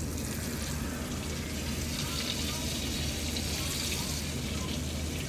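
Flour-dredged chicken frying in hot oil in a cast iron skillet: a steady sizzle with crackling, which grows louder about two seconds in.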